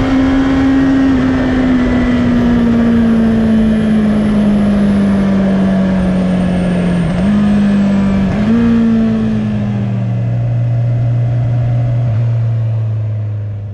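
Honda CB650R's inline-four engine heard from onboard as the bike slows: the engine note falls steadily, jumps up briefly twice around the middle (downshifts), then settles to a low steady tone close to idle for the last few seconds, with wind noise over the microphone.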